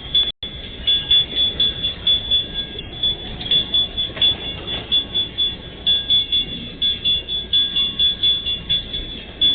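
Empty freight train rolling past at a level crossing: a steady rumble from the wagons, with loudness beating about twice a second and a high-pitched ringing tone throughout. The sound drops out briefly about half a second in.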